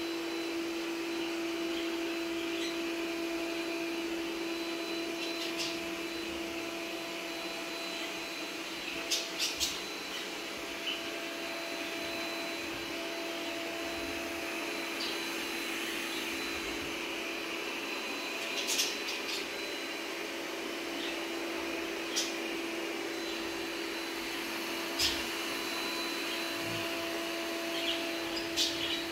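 Robot vacuum cleaner running with a steady, even hum and hiss. Short sharp clicks come now and then over it.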